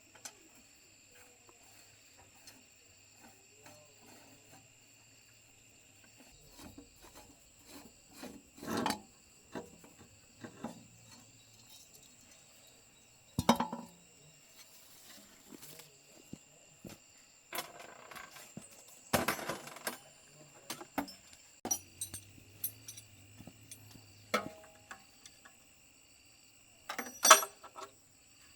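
Hand tools and metal parts being handled, with scattered clinks and knocks at irregular intervals; the sharpest come about 13 seconds in and near the end. A steady high chirring of insects runs underneath.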